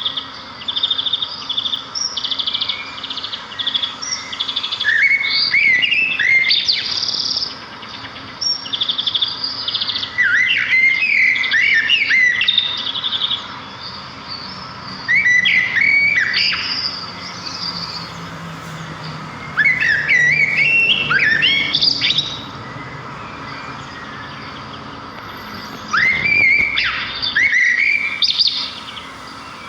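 Small songbirds chirping and singing in repeated bouts of quick twittering notes and short trills, a few seconds apart.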